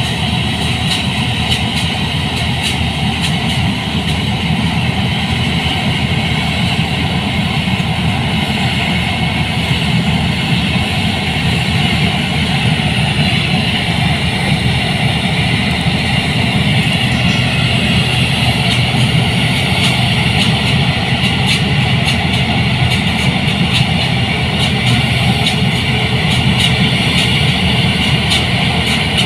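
New Holland 8060 combine harvester running steadily, its engine and machinery giving a continuous loud drone with no breaks.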